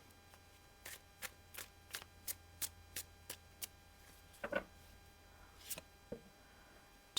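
A run of light clicks, about three a second for a few seconds, then a few scattered taps: tarot cards being handled and laid down.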